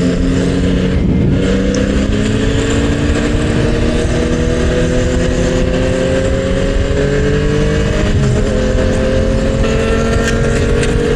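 Motorcycle engine running under way, its pitch climbing slowly and steadily as it gains speed, with a dense rush of wind and road noise.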